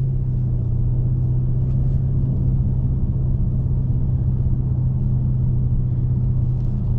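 Dodge Scat Pack's 6.4-litre HEMI V8 with its mid muffler deleted, running at a steady engine speed while cruising, its exhaust drone heard from inside the cabin and holding one pitch throughout.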